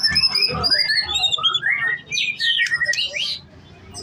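White-rumped shama (murai batu) singing a varied song of whistled notes that glide up and down, with quick chirps mixed in, breaking off shortly before the end.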